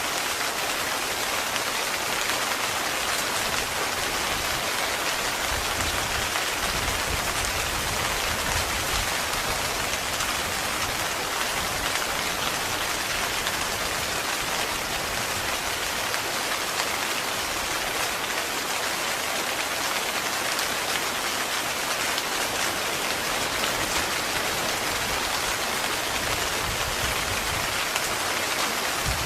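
Heavy rain falling steadily on a tent: a dense, even hiss of drops hitting the fabric.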